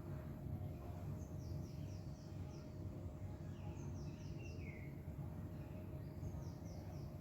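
A songbird singing short phrases of three to five quick, falling chirps, repeated about every two and a half seconds, over a steady low rumble of background noise.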